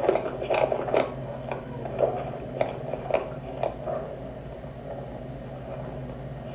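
Scuffling and handling noise: irregular knocks and clicks, about two a second, thinning out after about four seconds, over a steady low hum.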